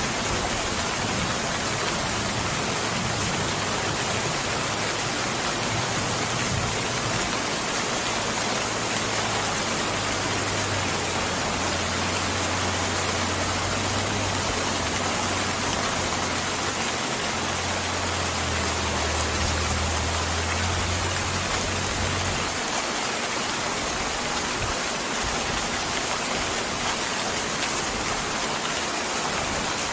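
Steady rain falling, an even hiss. A low rumble sits underneath from about a quarter of the way in and cuts off about three quarters through.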